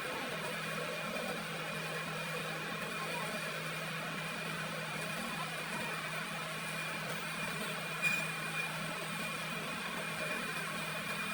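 A machine motor running steadily: an even hum with a thin, steady high whine above it.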